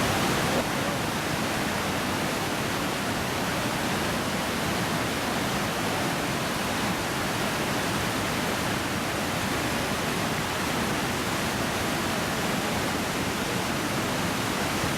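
Iguazu Falls: a very large waterfall's water pouring over the cliff, heard as a steady, even roar.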